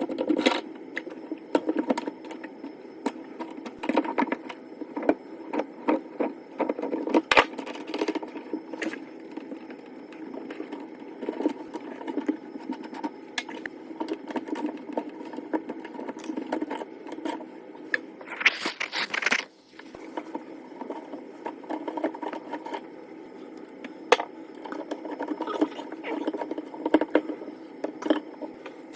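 Scraping, clicking and knocking of sink stopper and drain parts being handled, over a steady hum, with a brief hiss about two-thirds of the way through.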